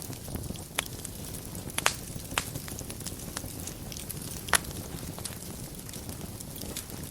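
Wood fire burning in a fireplace: a low steady rush of flame with sharp crackling pops every second or so. The loudest pops come about two seconds in and again about four and a half seconds in.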